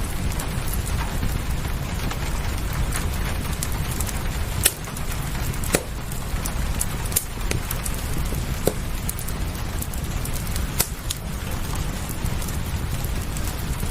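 Fireplace crackling, with sharp single pops every second or two, over a steady low rumble and the even hiss of rain.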